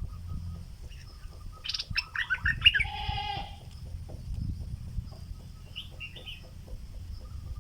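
Stripe-throated bulbul calling from its cage: a burst of quick chattering notes about two seconds in that ends on a harsher nasal note, then a short call near six seconds.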